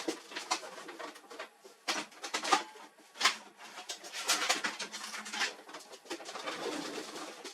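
Irregular clicks, knocks and rattles of printer parts and tools being handled.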